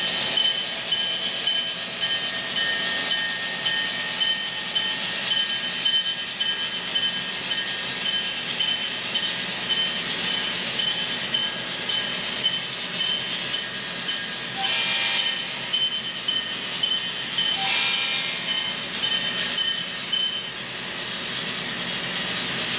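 Train running on track: a steady rumble with a regular clickety-clack, about one to two beats a second. Two brief louder rushes of noise come a little past the middle.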